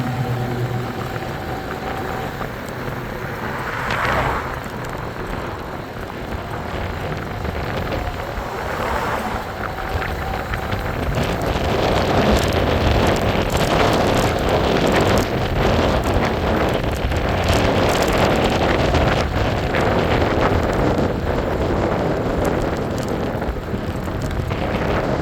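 Wind rushing over the microphone on a moving e-bike, with road noise, growing louder about halfway through.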